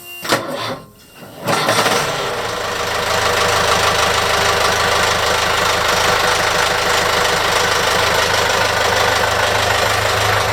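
Perkins Sabre marine diesel engine started from cold: it turns over briefly and catches about a second and a half in, then runs at a steady idle.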